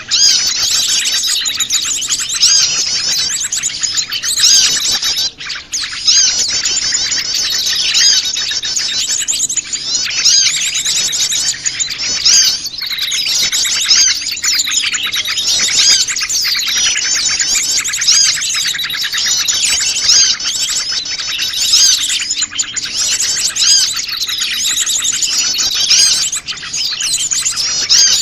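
A dense, noisy chorus of many small wild birds chirping and trilling over one another without a break: a mixed small-bird lure call.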